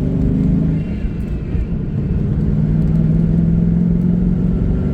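2002 Ford Mustang GT's 4.6-litre V8 running steadily while driving, with the car's road noise. The engine is logging random and cylinder 6 and 7 misfires, felt as a slight stumble when accelerating.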